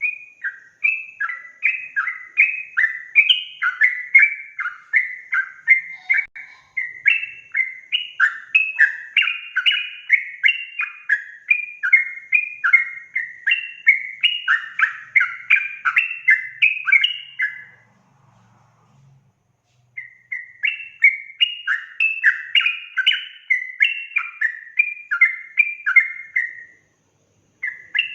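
Yellow-vented bulbul singing its fast, bubbling chattering song in long rapid runs of short notes. The song breaks off for about two seconds roughly two-thirds of the way through, then starts again.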